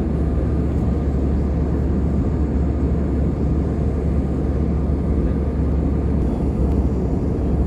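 Steady cabin noise of an Airbus A320 in flight, heard from a passenger seat: an even rush of airflow and engine noise over a strong low hum.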